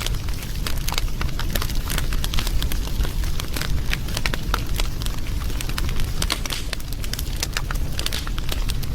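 Wood fire crackling, with many quick irregular pops and snaps over a low steady rumble.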